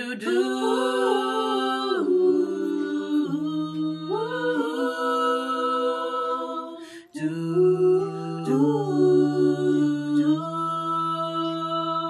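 Layered a cappella vocal harmonies, several multitracked parts by one female singer, holding close chords with no lyrics that shift every couple of seconds. There is a brief break about seven seconds in before the chord resumes.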